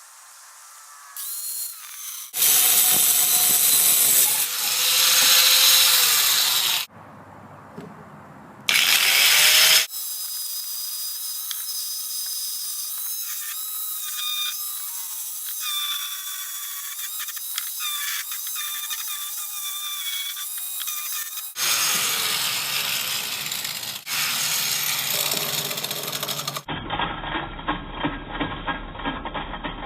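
Electric power tool running in a string of short, abruptly cut clips; in the longest stretch its steady whine sags slowly in pitch.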